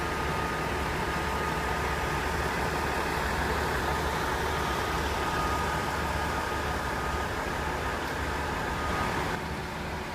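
Steady hum of a stationary train's running equipment, with a thin steady whine over it that stops about nine seconds in.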